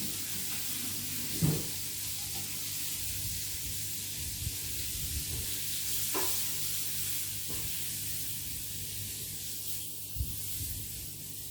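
Frying pan sizzling steadily as chicken fillets fry in oil, with a sharp knock about a second and a half in and a few lighter knocks later.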